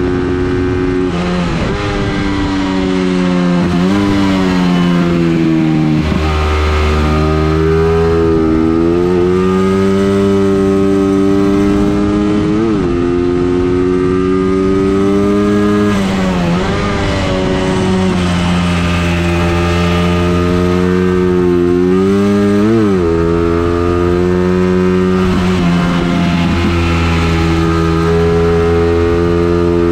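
Racing engine run hard around a circuit on an engine test, its pitch climbing steadily under load and dropping in several quick, sharp dips, as at gear changes or lifting for corners.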